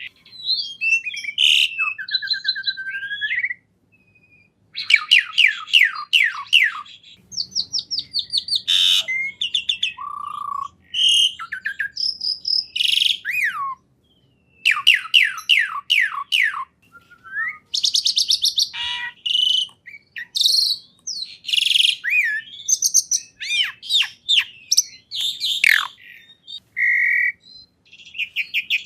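A songbird singing a varied, continuous song: quick runs of sharply falling notes, clear whistles and trills, broken by a couple of short pauses.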